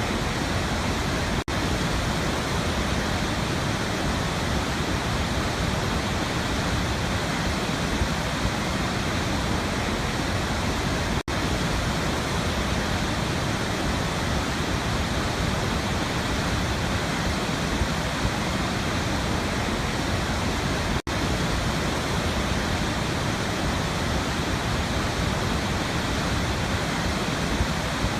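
Waterfall rushing in a steady, even roar of falling water. It cuts out for an instant three times, about ten seconds apart.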